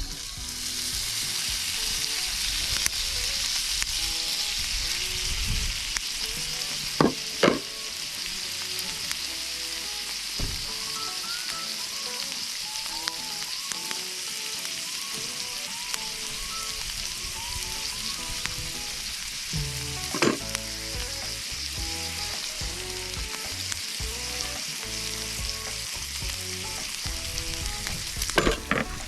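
Food sizzling steadily in a hot pan, with a few sharp knocks now and then.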